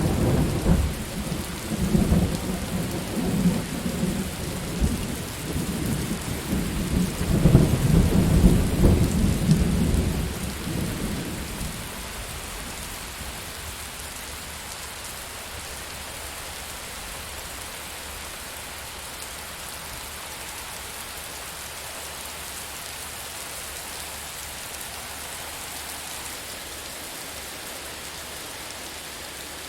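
Steady rain with a long rolling thunder rumble that swells to its loudest about eight seconds in and dies away by about twelve seconds; after that only the even hiss of rain.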